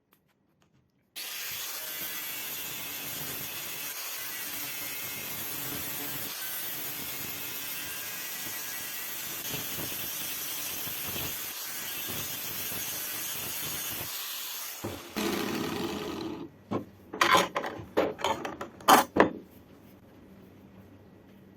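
A power tool running steadily with an abrasive, scraping noise for about thirteen seconds, then cutting off, followed by a few short, loud scraping strokes on the workpiece.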